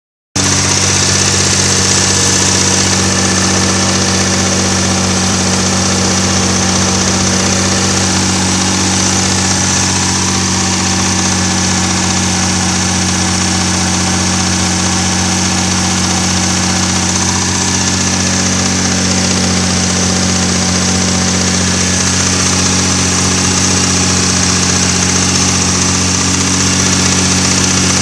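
Car engine idling steadily with a knocking noise from the engine.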